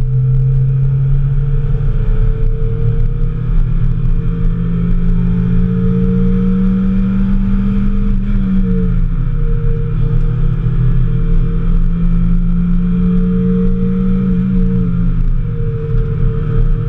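Mazda Miata's four-cylinder engine under hard acceleration on track, heard from inside the cabin over tyre and wind noise. Its note climbs slowly with revs and drops sharply twice, about halfway through and near the end.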